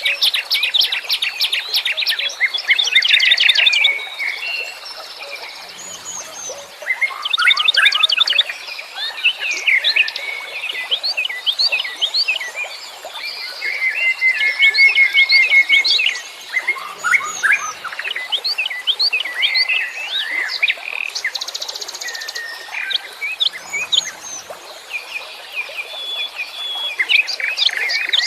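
Several wild songbirds chirping and singing at once: a dense mix of overlapping high chirps, rapid trills and short whistled phrases, with no pause.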